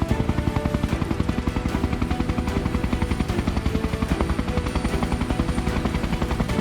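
Helicopter rotor blades beating in a rapid, even chop, with music underneath.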